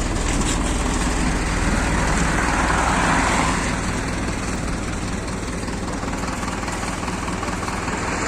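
Inside a MAZ-206 city bus: the engine runs with a steady low drone under road and cabin noise, with a brief louder rush of noise about three seconds in.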